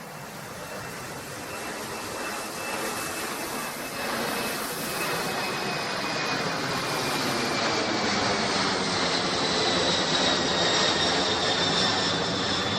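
Boeing 747-400 jet engines: a steady rush that grows louder, with high whining tones that slowly fall in pitch.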